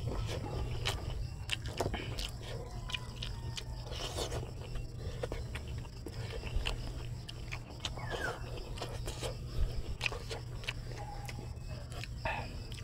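Close-up eating sounds: chewing and wet mouth smacks as rice and squid adobo are eaten by hand, with scattered small clicks and the scrape of fingers gathering rice on a banana leaf, over a steady low hum.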